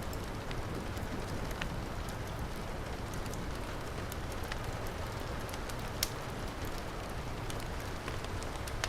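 Heavy rain falling steadily, mixed with a wood fire crackling in a fireplace: scattered small pops over the rain, with one sharp loud pop about six seconds in.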